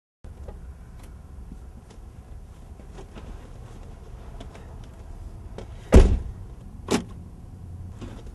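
A car door being worked, with small clicks and rattles over a low steady hum, then two knocks about a second apart about six seconds in, the first the louder.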